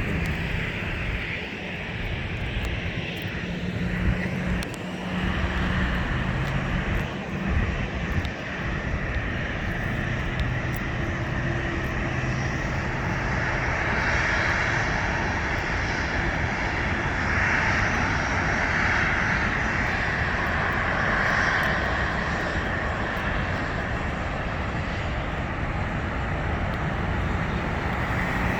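Boeing 777 jet airliner passing on its landing approach, its engines giving a steady rush with a high whine that swells about halfway through and eases near the end.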